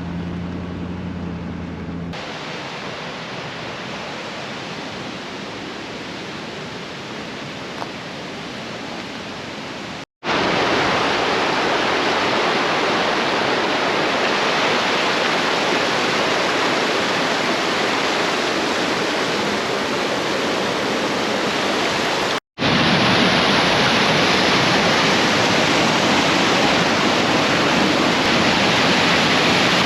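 Steady rushing water, like a waterfall or fast stream, in three takes split by sudden cuts about ten and twenty-two seconds in, each louder than the one before.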